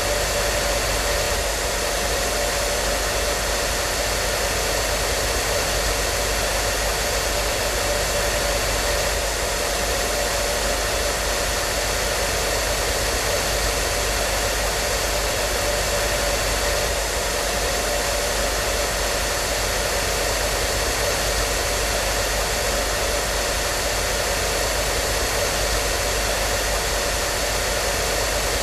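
Hair dryer running continuously: a steady rushing of air from its fan with a faint constant whine.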